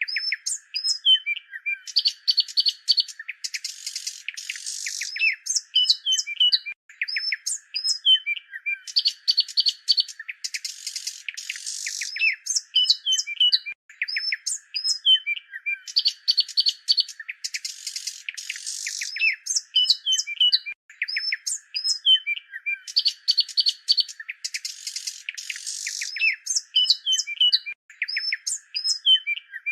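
Several songbirds chirping and twittering in quick, busy phrases with short trills, over a steady high hiss. The same stretch of calls repeats about every seven seconds, as a looped recording.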